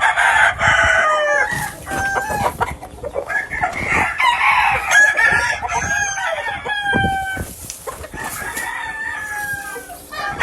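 Several gamefowl roosters crowing over one another, their calls overlapping, with clucking in between.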